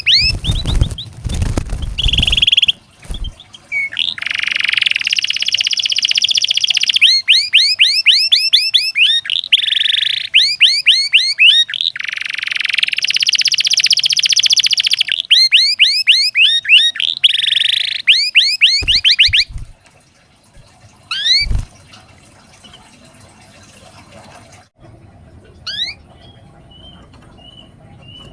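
Domestic canary singing a long, loud song of rolling trills and rapid rising whistled sweeps, used as a master song to prompt other canaries to sing. The song stops about 19 seconds in, leaving a few single rising chirps and a couple of low thumps.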